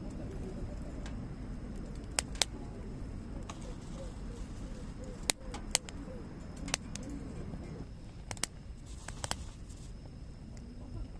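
Wood fire crackling, with sharp pops coming irregularly every second or so over a low steady rumble of the burning.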